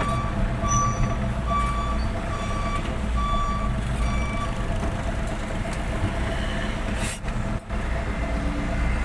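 Truck's reversing alarm beeping at an even pace, about one beep every 0.8 seconds, over the steady running of its engine. The beeps stop about four seconds in while the engine keeps running, and a short burst of noise comes about seven seconds in.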